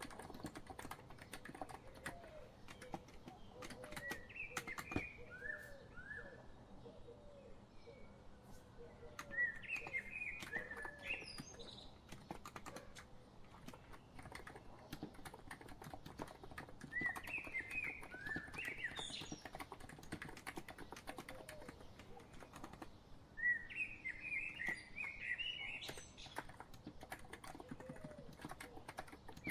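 Continuous typing on a COX Empress electrostatic-capacitive (Topre-style) keyboard, a dense patter of keystrokes. Over it a songbird sings in short chirping phrases about four times, a few seconds apart.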